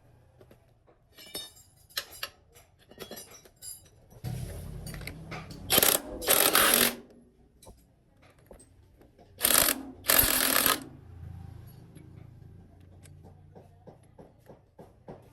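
Workshop repair sounds: scattered clicks and knocks of tools on metal parts, broken twice by a loud rush of noise about a second long, with quick ticking near the end.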